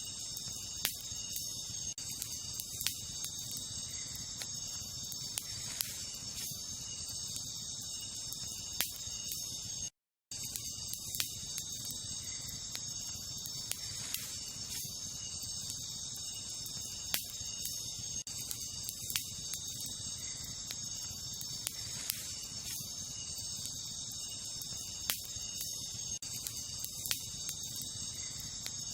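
Wood campfire crackling, with irregular sharp pops and snaps, over a steady high chorus of night insects such as crickets. The sound drops out completely for a split second about ten seconds in.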